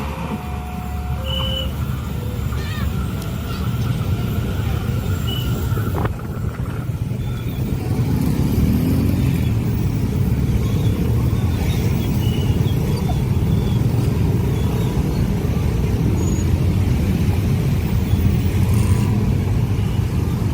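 Road traffic, mainly motorcycles and cars, with engines running in a steady rumble as they pass. A few short beeps sound in the first two seconds.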